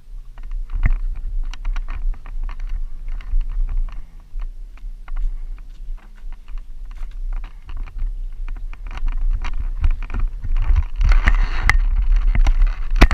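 Pitbike run: a heavy wind rumble with many irregular clattering knocks over it, and a faint engine note that rises and then falls in the first few seconds. The noise gets louder and busier near the end.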